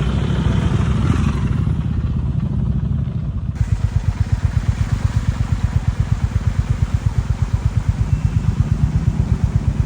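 Kawasaki W650's air-cooled parallel-twin engine running. About three and a half seconds in, the sound changes abruptly to a steady idle with an even exhaust beat of roughly seven pulses a second.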